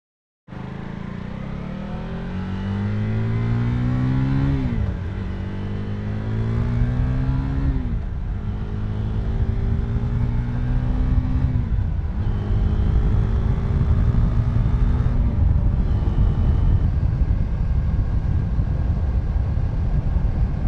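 KTM 390 Duke's single-cylinder engine accelerating up through the gears. The pitch climbs and drops sharply four times at the upshifts, then settles into a steady cruise with rising wind rush.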